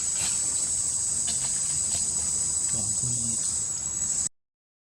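Steady, high-pitched insect chorus of crickets or cicadas, with a few faint clicks over it. The sound cuts out abruptly near the end.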